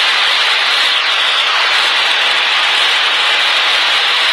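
Steady cockpit noise of a Cessna 152 in flight, engine and airflow heard as an even hiss through the aircraft's intercom.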